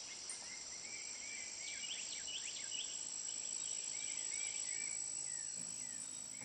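Outdoor ambience: a steady high-pitched insect-like drone, with short chirps repeating over it, thickest about two seconds in.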